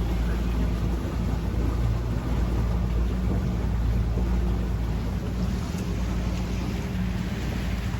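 Motorboat engine running at a steady speed, a continuous low hum with wind noise on the microphone over it.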